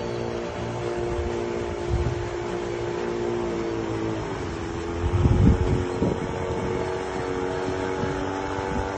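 An engine running steadily. Its pitch dips briefly about four seconds in, and there are a few low bumps near two seconds and again between five and six seconds in.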